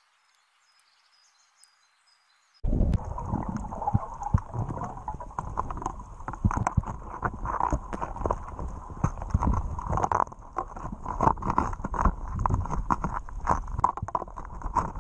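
Near silence, then about two and a half seconds in a dense, irregular run of knocks and thumps starts over a low rumble and keeps on, with a faint steady high hiss above it.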